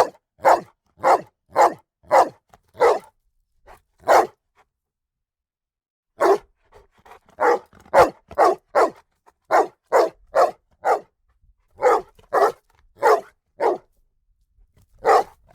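A dog barking repeatedly in short, sharp barks, about two a second, with a pause of about two seconds a third of the way through before the barking resumes.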